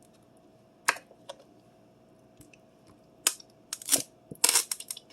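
Ketchup bottle being opened and squeezed: a sharp click about a second in, then several short, noisy squirts and clicks in the last two seconds.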